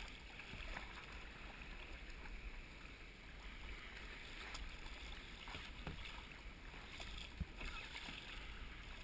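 Faint water sounds of a kayak paddling on calm water, with a few small clicks of paddle strokes over a low steady rumble.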